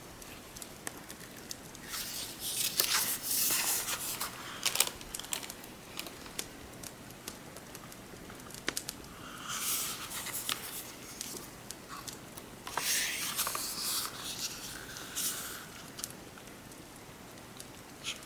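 Book pages being turned by hand: three rustling page turns with small paper clicks and taps between them, over a faint steady background of rain and crackling fire.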